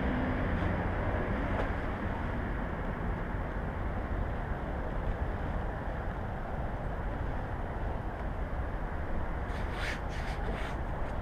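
Steady rush of wind and road noise on a moving motorcycle, with a few short clicks near the end.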